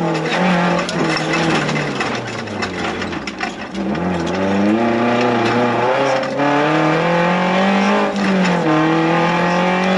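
Suzuki Jimny 1300 16S's 1.3-litre four-cylinder engine driven hard, heard from inside the cabin. The revs drop from about two to four seconds in as the car slows, climb steadily again, dip briefly near the end and then hold high. Knocks and rattles from the car going over the rough track come through.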